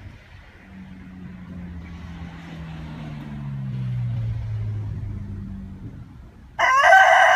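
A vehicle passes, its low engine hum swelling and falling in pitch. Near the end a rooster breaks into a loud crow.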